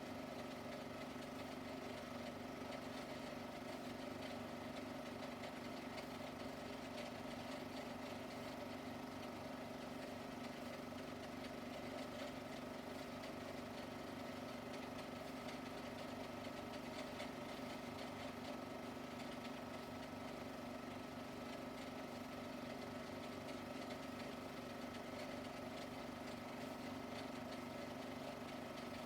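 Faint, steady machine hum with several fixed tones and a fine rapid flutter underneath, unchanging throughout.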